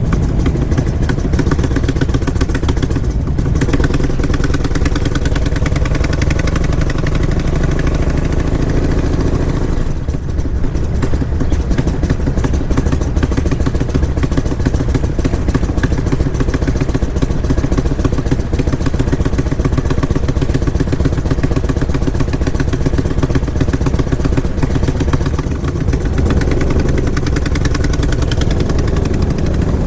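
Motorcycle engine running steadily, heard close, with a brief dip about ten seconds in and a change in pitch near the end.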